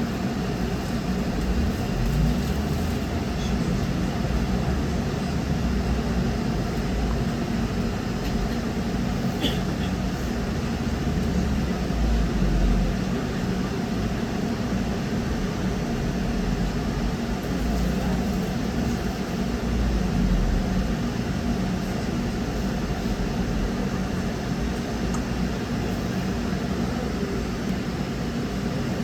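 Trolleybus in motion, heard from inside the passenger cabin: a steady hum from the drive over a continuous low road rumble.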